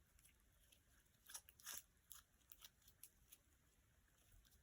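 Near silence, with a few faint crackles and clicks of slime being handled, mostly between one and two seconds in.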